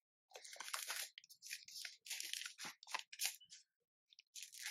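Plastic snack wrappers crinkling in irregular bursts as packaged Japanese snacks are handled and taken from the box, with a pause before one more short rustle near the end.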